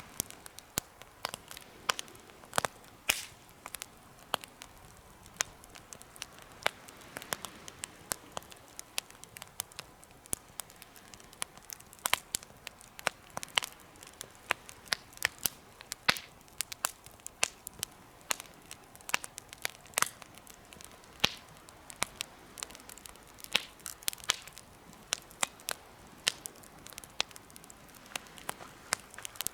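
Wood fire crackling in a homemade fire pit: irregular sharp pops and snaps, several a second, some louder than others, over a faint hiss of burning.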